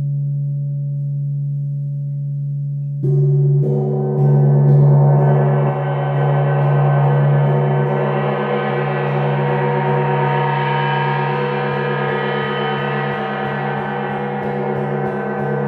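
Gong struck twice about three seconds in, over a steady low drone; its shimmering wash of many overtones swells over the next few seconds and keeps ringing.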